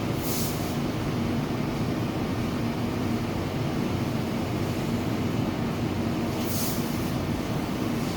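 Steady mechanical hum and rumble, with two short hisses, one near the start and one about six and a half seconds in.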